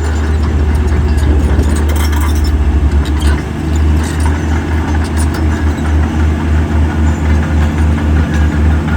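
Heavy diesel engine of an earthmoving machine running with a low throbbing beat, fast at first and then settling into a steady pulse of about two to three a second. A few sharp clicks come in the first half.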